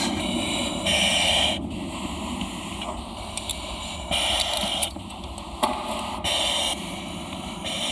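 Breathing through a breathing-apparatus face mask: repeated hissing breaths through the mask's valve, every couple of seconds.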